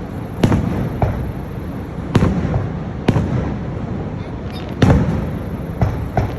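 Fireworks bursting overhead: about six sharp bangs spaced a second or two apart, the loudest nearly five seconds in, with a low rumble carrying on between them.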